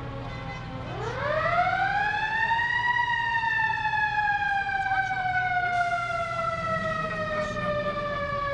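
Fire engine siren winding up about a second in, its pitch rising steeply for two seconds, then slowly winding down. A low steady rumble runs underneath.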